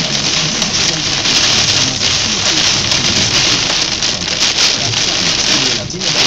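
Heavy rain pelting a car's windshield, heard from inside the car as a loud, dense, steady hiss that eases briefly near the end.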